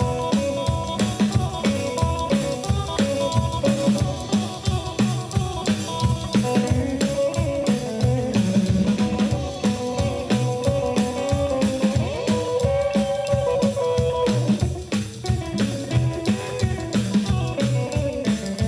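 Live rock and roll trio playing an instrumental break with no vocals: electric guitar lines over a drum kit keeping a steady, busy beat, with double bass underneath.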